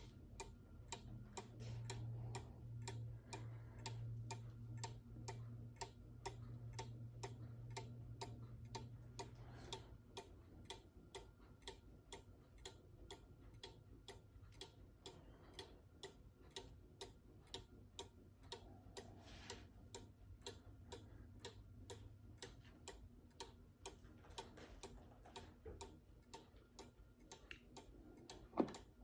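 8-day Regula clock movement ticking at a steady, even beat, with a louder click near the end.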